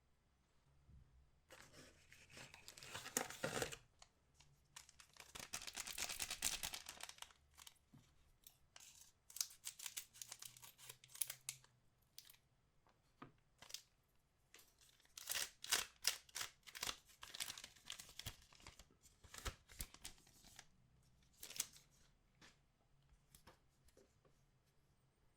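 Trading-card packs being torn open by hand: two longer rips of the wrapper, then many short crackles and crinkles of the foil packaging being handled.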